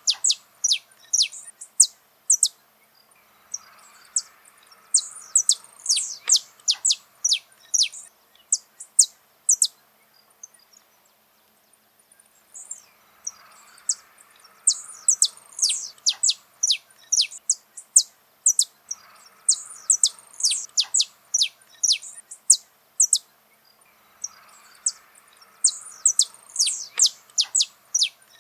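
Saffron finch (canário-da-terra) singing: phrases of rapid, sharp, high descending notes, repeated with short pauses between them.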